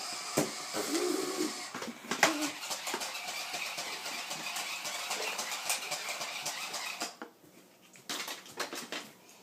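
Toy remote-control car driving across the floor: its small electric motor whirring steadily, with light clicks and knocks from the wheels and body, then stopping about seven seconds in.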